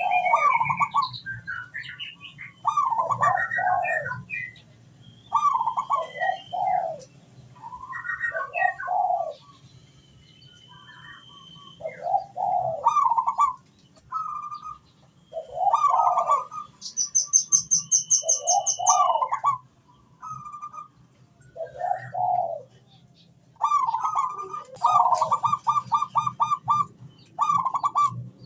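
Zebra dove (perkutut) cooing: repeated phrases of quick rolling notes, one every two to three seconds, with a fast run of notes near the end. Small birds chirp higher up, with a high trill about two-thirds of the way through.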